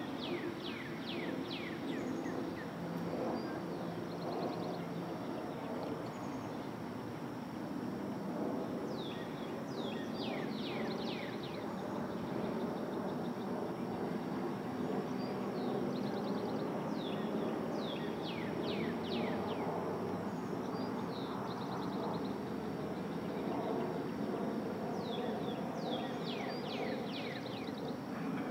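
Steady low background rumble with a bird singing four times, about eight seconds apart; each phrase is a quick run of falling whistled notes.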